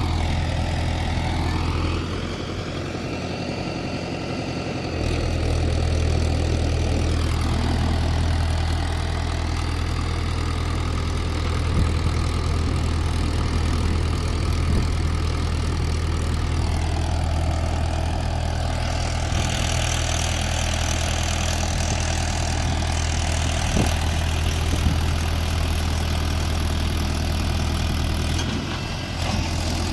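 Mahindra 475 DI tractor's diesel engine working to pull free of deep mud, its speed rising and falling several times. A steady hiss joins it about two-thirds of the way through.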